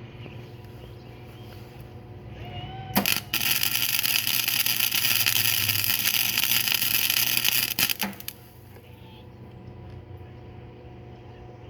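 Flux-core MIG welder laying one bead of about five seconds on thin painted steel pipe: an even crackling buzz that strikes about three seconds in, catches after a short stutter, and cuts off around eight seconds. A steady low hum runs under it.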